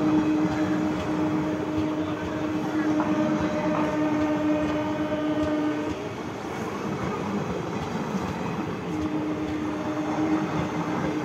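Passenger coaches of an express train rolling past at speed, with a continuous rumble and rattle of wheels on the track. A long steady tone sounds over it for the first half, stops about six seconds in, and returns near the end.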